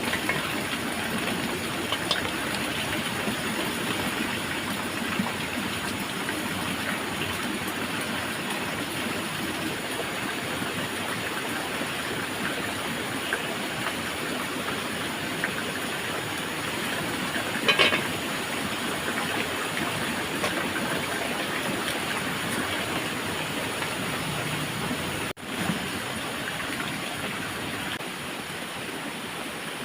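Steady rush of running water, with a brief clatter a little past the middle.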